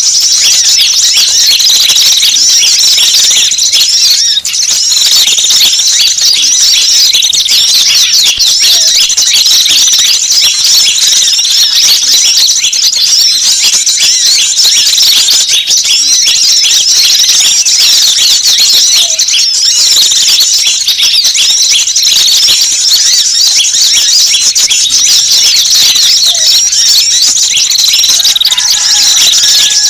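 Many small wild birds chirping and twittering at once in a dense, continuous high-pitched chorus, a mixed bird-lure call recording used to attract small birds.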